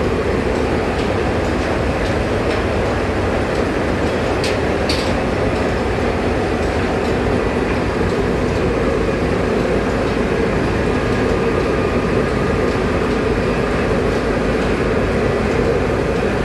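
Steady running noise of a moving vehicle, even throughout, with two faint clicks about four to five seconds in.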